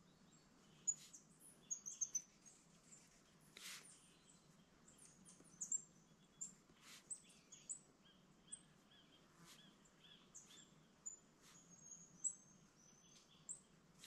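Small forest birds giving many short, high chirps and whistled call notes, faint and scattered, with a few brief scratchy sounds mixed in.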